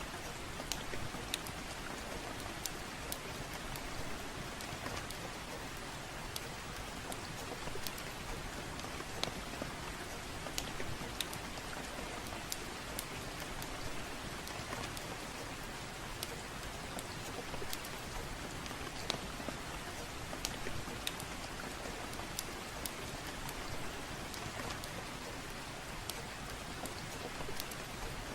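Steady gentle rain with a crackling fireplace: an even hiss of rain with frequent sharp, irregular pops and crackles scattered throughout.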